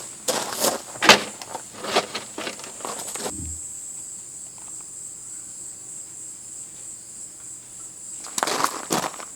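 Insects chirring, a steady high tone, with a run of sharp clicks and knocks in the first three seconds and again near the end.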